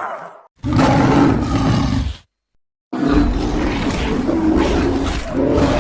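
Voiced growling-roar sound effects for a cartoon pig character (Foreman Pig), played as separate short clips. One trails off about half a second in, another runs from just under a second to about two seconds, and after a cut to silence a longer one starts at about three seconds.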